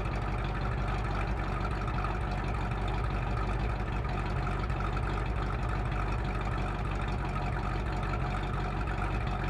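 Chevrolet 383 stroker small-block V8, with a hydraulic roller camshaft and 492 double-hump heads, idling steadily through its exhaust.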